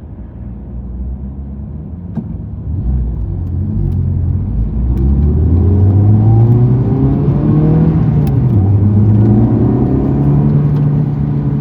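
Honda Civic Type R FL5's turbocharged 2.0-litre four-cylinder through a Mugen exhaust, accelerating and growing louder with its pitch climbing. It dips briefly in pitch about eight and a half seconds in, then climbs again and holds.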